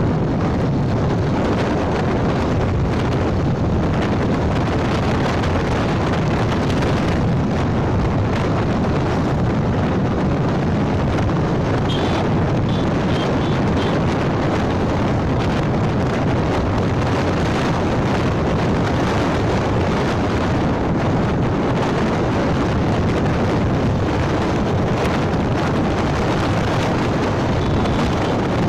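Wind buffeting the microphone on a moving motorcycle, mixed with road and engine noise, loud and steady. A few faint short high beeps come about twelve seconds in.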